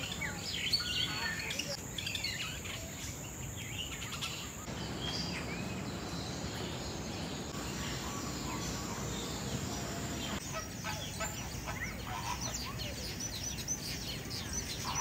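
Birds chirping and calling: scattered short calls and pitch slides, then a dense run of quick chirps from about ten seconds in, over steady background noise.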